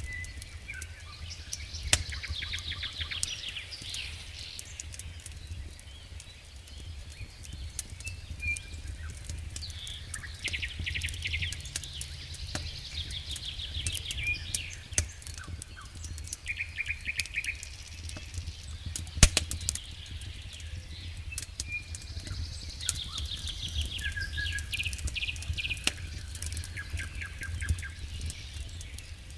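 A wood campfire crackling with sharp pops, the loudest about 19 seconds in, while songbirds sing short repeated trilling phrases. A steady low hum runs underneath.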